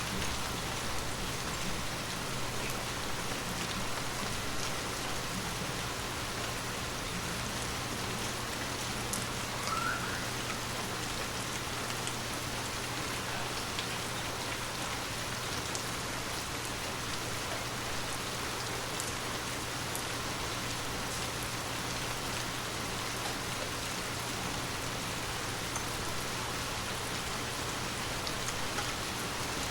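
Water drops pattering on glass: a steady hiss of spray with scattered light taps, over a steady low hum.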